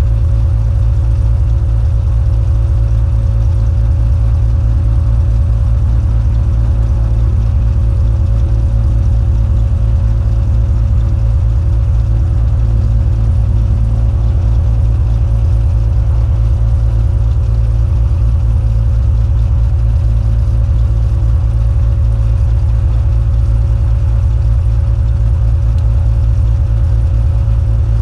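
Cessna 182's single piston engine and propeller running at a steady speed: a loud, even low drone with a constant higher tone over it.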